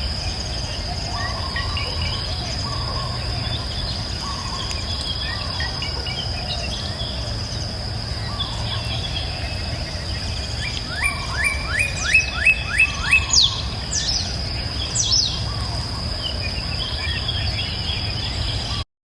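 Forest ambience: a steady high-pitched insect drone under scattered bird chirps. About 11 seconds in, a bird gives a quick series of about seven rising notes, the loudest sound, followed by a couple of high sweeping calls. The audio cuts off abruptly just before the end.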